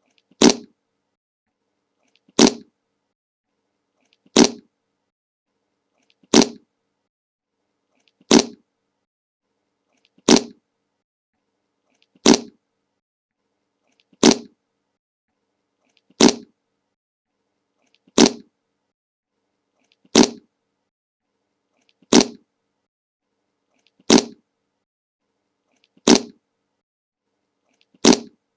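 The 'Le Monke' fart sound effect repeated on a loop: the same short fart plays about every two seconds, with silence in between.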